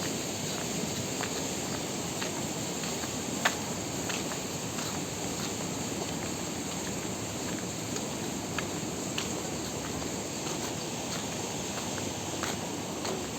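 Footsteps on a walkway, a light tap about every half second to a second, with one sharper click about three and a half seconds in, over steady outdoor background noise and a constant high hiss.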